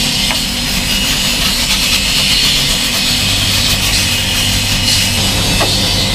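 Pressure washer running steadily: a low motor hum under a continuous hiss of water spray.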